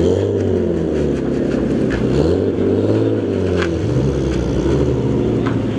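A car engine revved up and back down twice, its pitch rising and falling in long sweeps, over the steady running of other idling engines.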